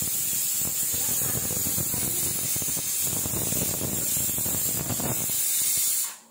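Steady loud sizzling hiss of food frying on a kitchen stove, cutting off abruptly near the end.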